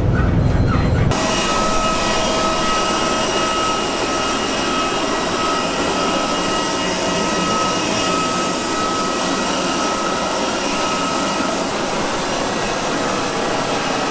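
Steady jet-engine noise as heard in an airliner cockpit: an even hiss with several high, constant whines. It starts abruptly about a second in.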